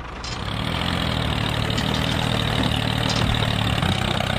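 Tractor engine running at a steady idle, swelling up over the first second and then holding even.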